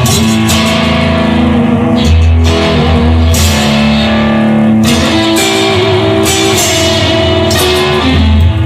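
Instrumental passage of a rock song: electric guitar playing over bass guitar, with no singing.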